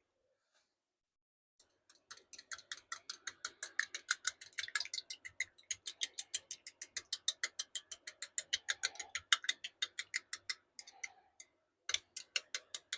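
Utensil clicking against a cup as the glitter is stirred into liquid plastic, rapid and even at about six clicks a second. The clicking starts about two seconds in, stops briefly near the end, then starts again.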